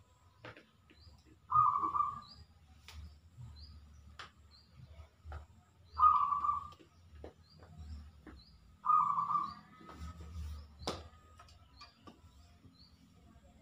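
Birds calling: a loud call repeated three times, about every three to four seconds, over small high chirps. A few sharp clicks and one louder knock come about eleven seconds in.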